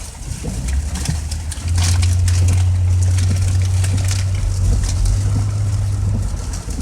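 Low steady drone inside a moving car, swelling about two seconds in and easing near the end, with scattered light ticks over it, likely rain hitting the car.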